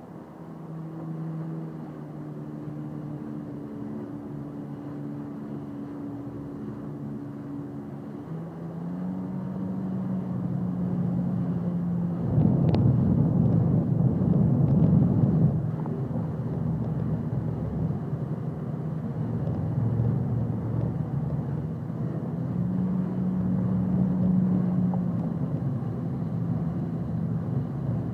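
Jet ski engine running, its pitch rising about a third of the way in as it speeds up. It gets louder and rougher for a few seconds near the middle, with a brief click, then runs steadily with the pitch rising and falling slowly.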